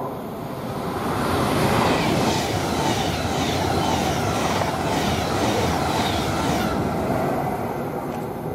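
Virgin Trains West Coast express passenger train passing through at speed close by. Its wheels and bodies make a loud rushing noise that peaks about two seconds in, with a regular clicking of wheels over the rails, then dies away after about seven seconds as the train clears.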